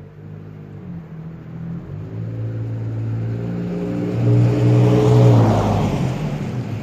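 A 2006 Toyota Tacoma's 4.0-litre V6 through a Gibson cat-back exhaust with a non-packed aluminized Superflow muffler, driving past at about 30 mph. The exhaust note grows louder as the truck approaches, passes about five seconds in with rising tyre noise and a drop in pitch, then fades away.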